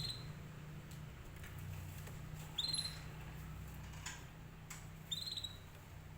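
Canary giving short, high chirping call notes, three times about two and a half seconds apart, over a steady low hum.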